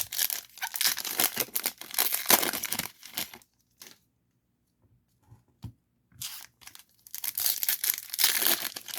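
Foil wrapper of a baseball card pack being torn open and crinkled by hand, in two spells of rustling with a short near-quiet pause in the middle.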